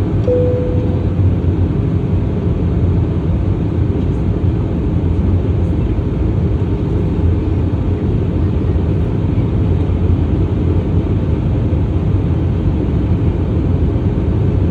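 Airliner cabin noise during the approach: the steady low rumble of the engines and airflow, with a brief clear tone just after the start.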